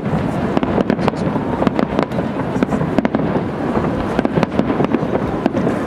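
Aerial firework shells bursting: a rapid, irregular string of bangs and crackles.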